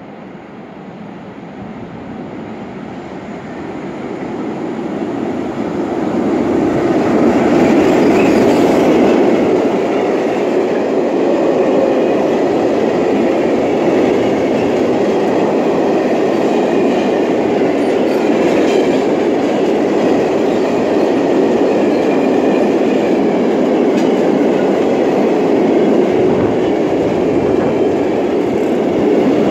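Freight train of tank wagons approaching and running past. It grows louder over the first seven seconds or so as the locomotive nears, then gives way to a steady rolling noise from the wagon wheels.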